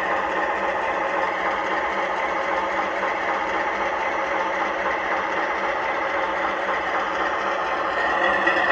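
O gauge model diesel locomotive running on the layout: a steady engine sound with the motor and wheel noise of the train, getting a little louder near the end.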